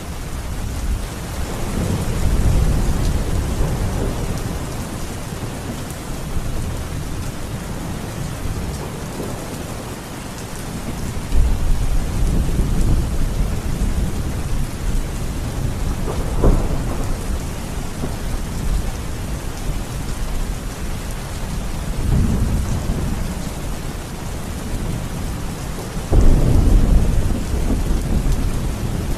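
Thunderstorm: steady rain with thunder rumbling again and again, a sharp crack about halfway through and a loud rumble near the end.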